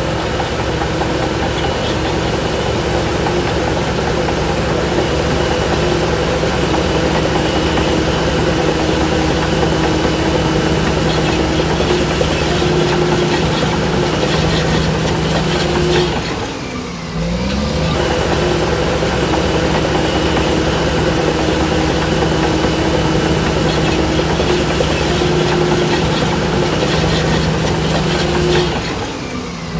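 Shantui DH17C3 crawler bulldozer's diesel engine running steadily under work. Engine speed dips briefly and climbs back twice, about halfway through and near the end.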